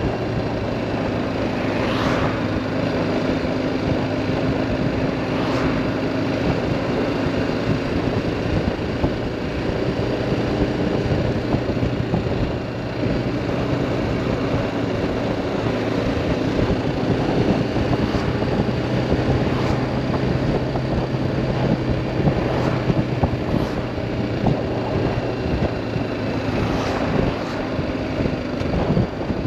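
BMW G310R motorcycle's single-cylinder engine running at a steady pitch, with road and wind noise.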